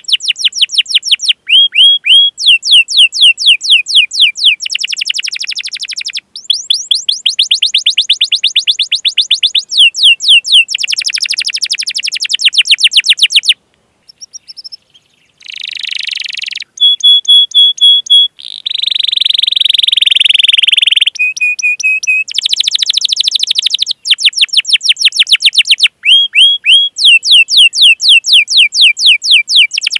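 Domestic canary singing: long rolls of rapid, repeated down-slurred 'cuit cuit' chirps. About halfway through there is a short break, then a few steady whistled notes and a harsh buzzy note before the chirping rolls start again.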